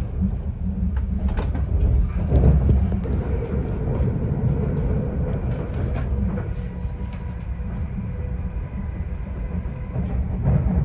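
Greater Anglia Class 745 FLIRT electric train running, heard from inside the carriage: a steady low rumble of wheels on the track with a few faint clicks. A faint steady whine comes in about three seconds in and fades before the end.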